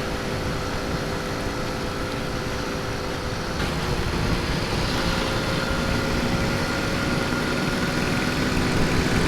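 Honda C90's small single-cylinder four-stroke engine running steadily at road speed, with wind rumbling on the microphone; the engine note rises slightly about halfway through.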